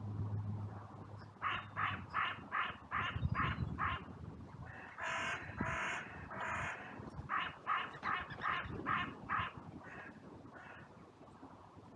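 Carrion crow cawing in a territorial series: about six quick caws, then three longer, harsher caws, then another run of about eight quick caws that fades near the end.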